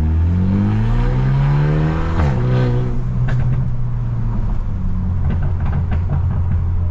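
Straight-piped, Stage 2+ tuned BMW F30 accelerating hard, its engine note rising steadily for about two seconds. The throttle then snaps shut and the engine falls away, and several sharp exhaust pops follow over the next few seconds while the engine drones on at a steady lower pitch.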